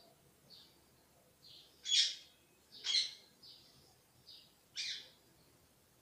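A bird chirping repeatedly in short, high notes, with three louder calls about two, three and five seconds in.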